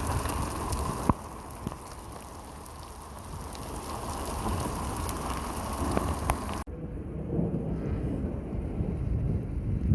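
Rain falling, an even hiss with sharp drop taps now and then. About two-thirds of the way in, the sound cuts abruptly to a deeper, rumbling noise with little hiss.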